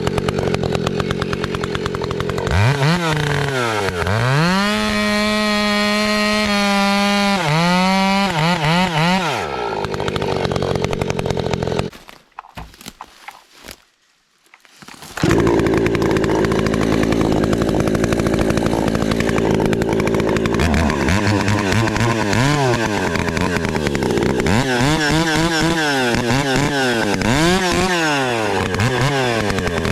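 Two-stroke chainsaw running at high revs, throttled up and down several times and holding steady at full throttle in between, as when bucking softwood firewood. Near the middle the sound nearly drops out for about three seconds, then the saw is running and revving again.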